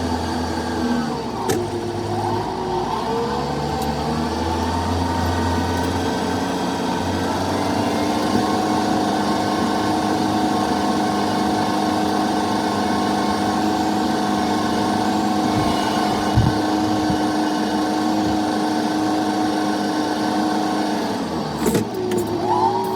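Tractor engine running under load while pulling a mole plough through the soil. The engine note shifts in the first few seconds, then holds steady, and dips and comes back up near the end.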